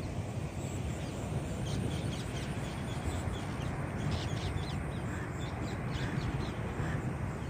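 Outdoor ambience: birds calling in many short, high chirps over a steady low background noise.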